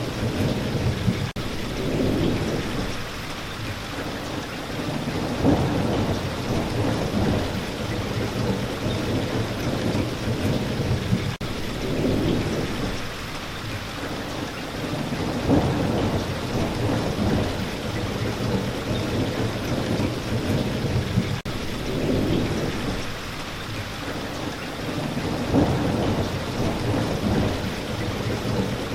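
Steady rain falling, with low rolls of thunder that swell and fade every few seconds.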